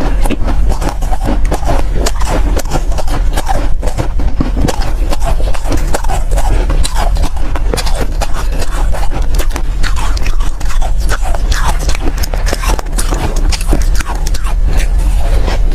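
Close-miked biting and chewing of soft, powdery ice: a dense, continuous crunching crackle, loud, over a steady low hum.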